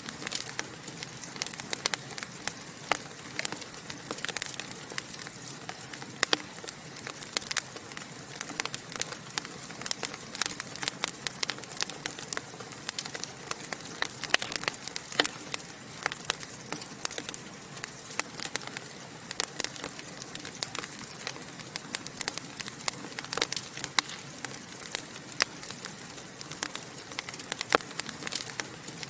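Wood fire crackling and popping in a fireplace: a steady hiss with many quick, irregular snaps.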